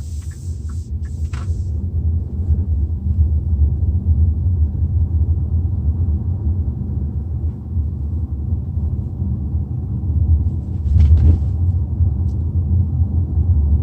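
Steady low road and engine rumble inside the cabin of a moving Hyundai Tucson NX4. A few turn-signal ticks sound in the first second, and short hisses come in the first second and again about 11 seconds in.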